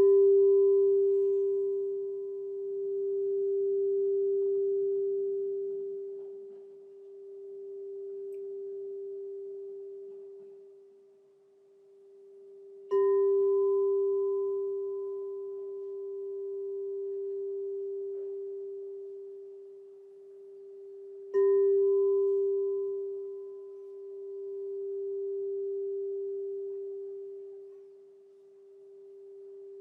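Crystal singing bowl struck three times: at the start, about thirteen seconds in and about eight seconds later. Each strike rings on as one steady low tone with a fainter higher overtone, its loudness swelling and fading in slow waves as it dies away.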